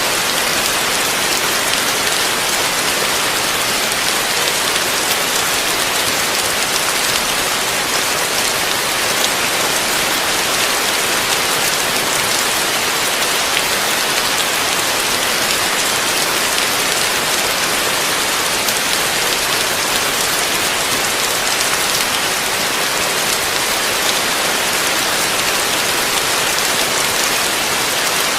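Heavy rain falling steadily, a dense, even hiss of drops on a surface with no let-up.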